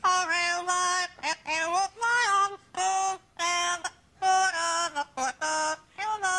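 Pet parrot singing a tune: a run of separate held notes, some wavering, with short breaks between them.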